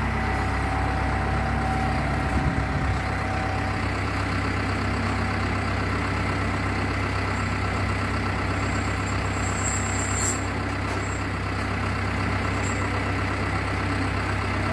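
An engine idling steadily, with an even low hum throughout.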